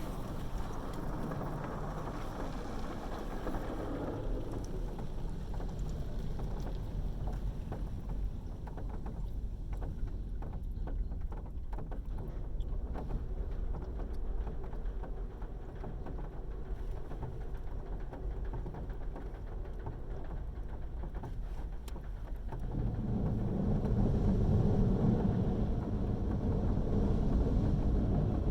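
Automatic car wash heard from inside the car: water spray and equipment drumming on the body in a steady noisy wash, with a louder low rumble setting in about 23 seconds in.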